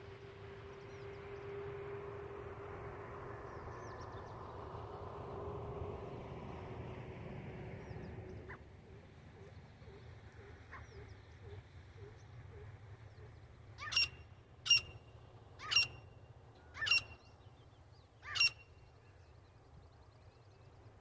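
A titar (francolin) giving five loud, sharp calls, about a second apart, in the second half. Before that, a low steady hum with a swell of noise fades away.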